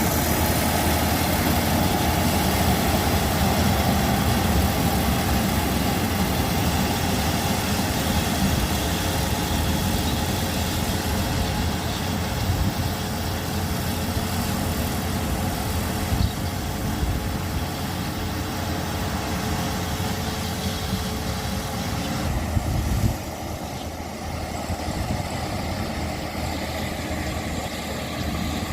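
A motor engine running steadily with a low drone. It drops somewhat in level about 23 seconds in.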